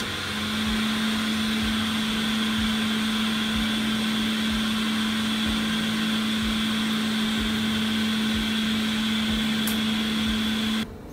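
Small electric blower or fan running steadily with a low hum and a high whine, cooling the just-reworked logic board; it cuts off suddenly near the end.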